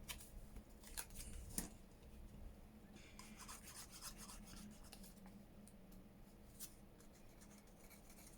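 Faint handling of paper and card on a craft table: a few light taps and clicks and a short rubbing, scratchy stretch, over a faint low steady hum.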